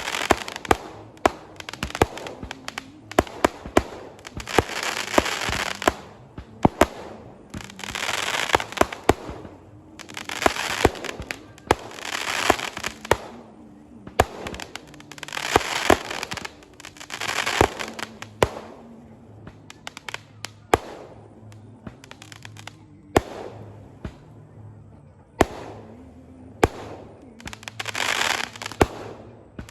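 Firecrackers going off: many sharp bangs in quick, irregular succession, with a swelling rush of crackling every couple of seconds.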